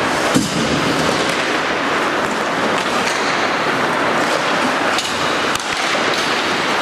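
Ice hockey rink sound during play: a steady rushing hiss of skates and arena noise, with a few sharp knocks of stick or puck, one about half a second in and a couple around five seconds.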